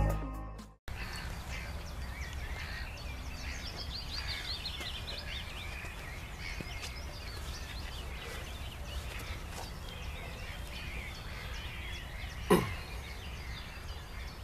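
Songbirds chirping and singing over a low steady rumble, after the tail of electronic intro music cuts off at the start. A single sharp knock about twelve seconds in.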